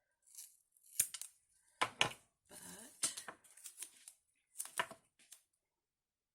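Paper-crafting handling sounds: irregular sharp clicks and short rustles of cardstock and foam mounting tape being worked by hand, stopping about five seconds in.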